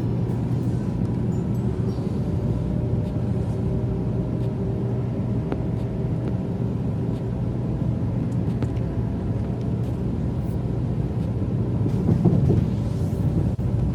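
Sanyo Shinkansen Nozomi train running at speed, heard from inside the passenger cabin as a steady low rumble, with a brief louder swell near the end.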